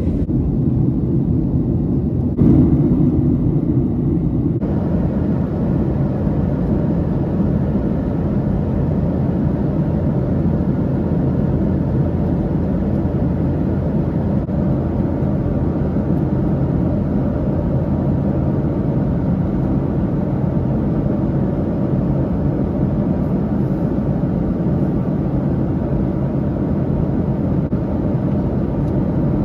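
Steady drone of a Boeing 737-800's CFM56 engines and airflow heard inside the passenger cabin, swelling a little for about two seconds near the start.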